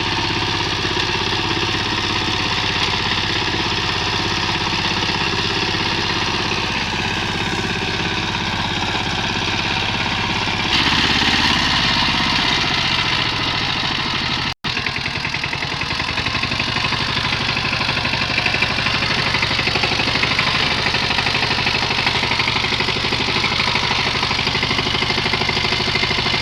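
Power tiller's single-cylinder diesel engine running steadily. About eleven seconds in it turns louder and hissier, it cuts out for an instant a few seconds later, then runs on evenly.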